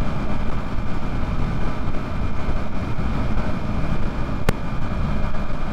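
Yamaha MT-03 motorcycle engine running at a steady road cruise, mixed with rushing road and wind noise. A single sharp click about four and a half seconds in.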